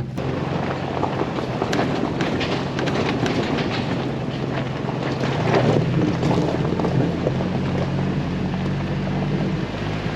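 Jeep Wrangler driving on a rough back road: a steady low engine drone under tyre and road noise, with many sharp clicks and knocks, most of them in the first half.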